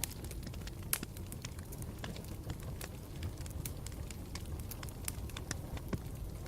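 Wood campfire burning with a steady low rumble and frequent irregular crackles and pops, one sharper pop about a second in.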